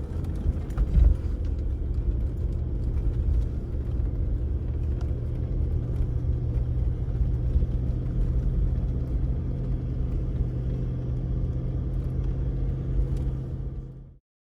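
A vehicle engine running steadily under a heavy low rumble, with a louder knock about a second in; the sound cuts off abruptly near the end.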